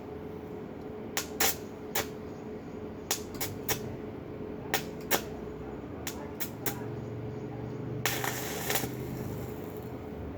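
Sharp metallic clinks and taps, about a dozen, spaced irregularly, over a steady hum. A short hissing crackle comes about eight seconds in.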